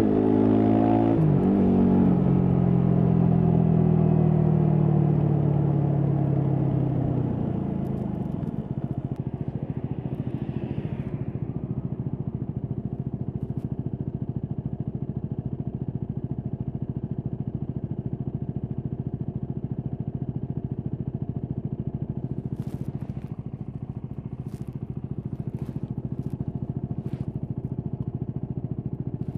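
Yamaha WR250X's single-cylinder four-stroke engine shifting up twice, then its note falling as the bike slows, settling about a third of the way in to a steady low idle. A few light clicks near the end.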